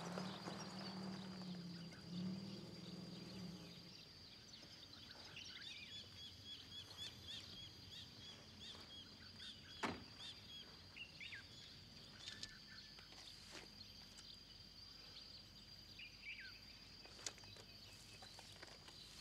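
A vintage car's engine running as the car pulls up, fading out about three and a half seconds in. After that come faint, scattered bird chirps and a single sharp knock about ten seconds in.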